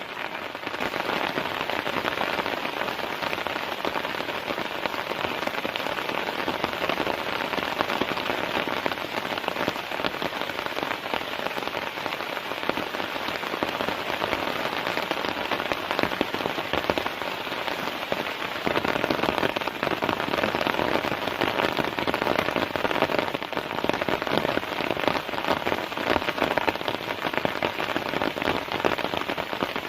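Heavy rain falling steadily on a tent, a dense patter of drops hitting the fabric that grows a little louder about a second in.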